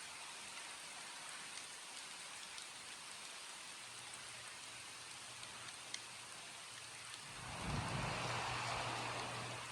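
Steady rain falling. About seven seconds in, a louder rushing swell with a low rumble rises and then fades just before the end.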